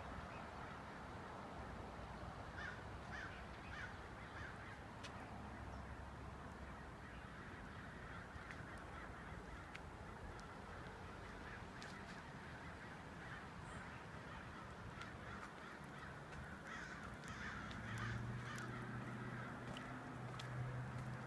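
A large flock of birds calling at once, a continuous dense chatter of many overlapping caws. A low steady hum comes in near the end.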